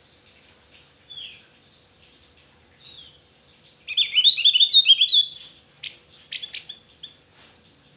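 Javan grey-throated white-eye (opior Jawa) singing: a couple of soft falling notes, then about four seconds in a loud, rapid run of quick rising chirps lasting about a second and a half, followed by a few short sharp notes.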